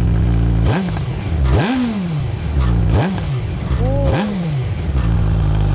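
Suzuki Hayabusa Gen 3's 1340 cc inline-four with an Akrapovič exhaust, idling and revved four times by throttle blips; each rev rises sharply and falls back to a steady idle.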